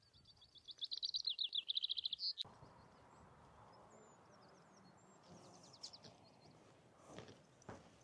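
A small songbird singing a fast trill of repeated high notes for about two and a half seconds, cut off abruptly. After that, faint high chirps and a second shorter trill, with a few footsteps near the end.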